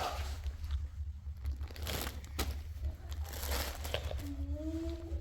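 Crinkling and rustling handling noises over a steady low rumble, with a short pitched call about four seconds in.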